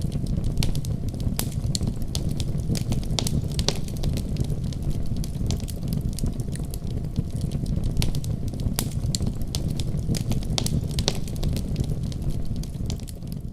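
Wood fire in a fireplace crackling, with many sharp pops over a low steady rumble. It starts fading out near the end.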